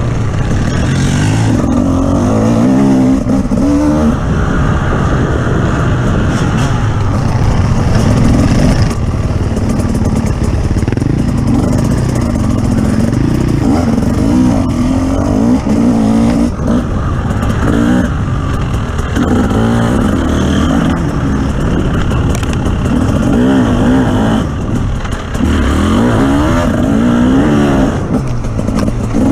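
Engine of an off-road vehicle driven over rough terrain, revving up and down over and over as the throttle is worked, with rattling and clatter from the vehicle.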